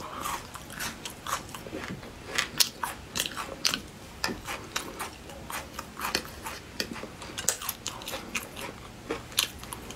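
Close-up chewing of crisp, spicy marinated beef skin: many quick, irregular crunches with the mouth working steadily.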